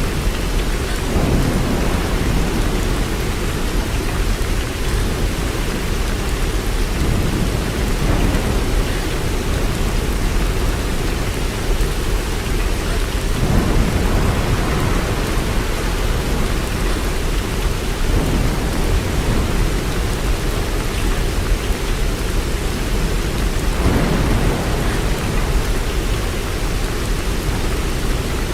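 Steady heavy rain, a continuous hiss over a deep low rumble that swells up a few times.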